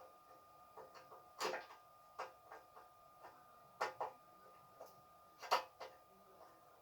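Irregular metal clicks and knocks from gas stove parts and tools being handled during a repair, the loudest about a second and a half, four and five and a half seconds in, over a faint steady high hum.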